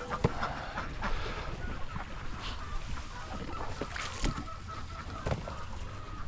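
Ducks quacking in short calls, with scattered knocks and clatter.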